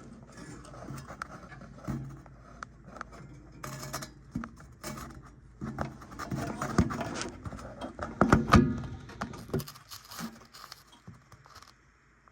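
Hands and tools working on a gas furnace's burner assembly as the burners are taken out for cleaning: irregular clicks, knocks and scrapes, with a louder run of knocks about eight seconds in.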